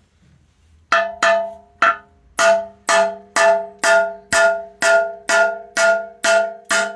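Hammer striking a steel pin about a dozen times, roughly twice a second, each blow ringing like a bell. The pin is being driven into a tight bore in a digger bucket hanger.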